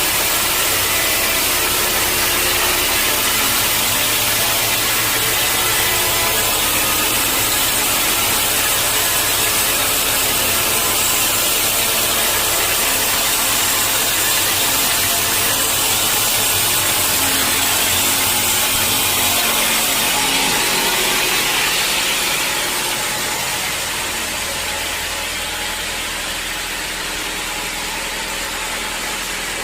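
Sawmill saw cutting steadily through a mahogany log with its engine under load. A little over two-thirds of the way in, the cutting noise eases off and the machine runs on lighter, as the blade leaves the wood.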